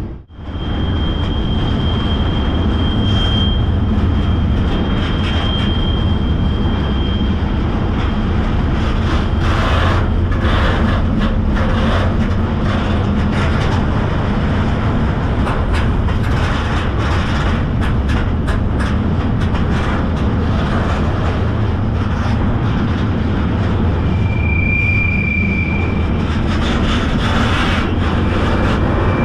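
Freight train rolling, heard from aboard: a steady heavy rumble and rattle with scattered knocks, and a high steady wheel squeal for the first several seconds and again briefly near the end.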